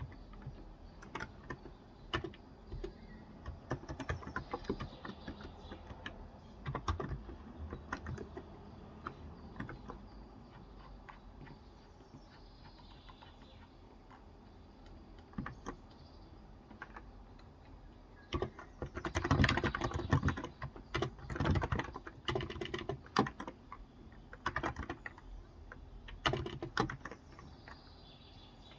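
Typing on a Cox Endeavor electro-capacitive (Topre-style) tenkeyless keyboard with light 35 g switches. It starts as scattered keystrokes, eases off in the middle, then picks up into quick runs of typing about two-thirds of the way in.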